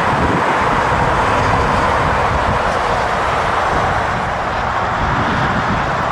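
Jet airliner engine noise: a steady, loud rush that eases slightly toward the end.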